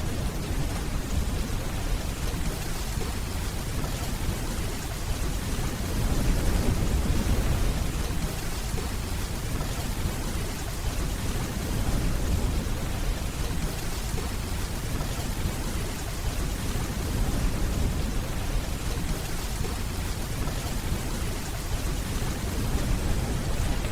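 Steady rainfall with a low rumble of distant thunder underneath, swelling gently now and then.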